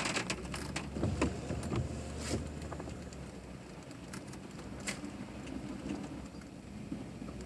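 A vehicle moving slowly: a low steady hum with scattered light clicks and ticks.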